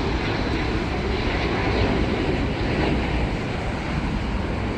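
Steady noise of a jet airliner's engines as a plane passes.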